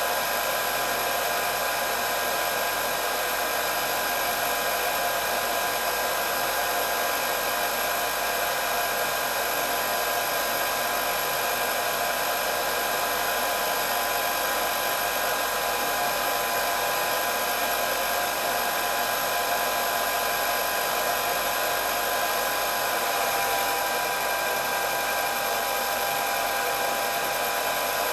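Electric hair dryer running continuously with a steady airflow hiss and a constant high motor whine.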